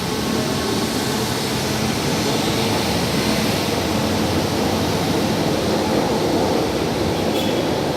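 São Paulo Metro Line 1 train running at the station platform, a loud, steady rushing of wheels on rails and moving air.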